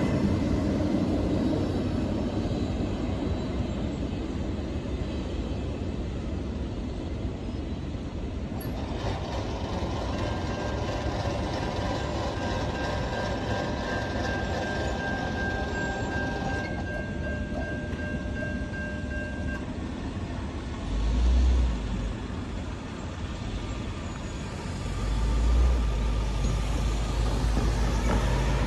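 The tail of a double-stack intermodal freight train rolls past with a steady rumble of wheels on rail, which thins out about eight seconds in. A steady whine follows for about ten seconds while the crossing gates' motors lift the gate arms. Near the end, road cars rumble across the grade crossing.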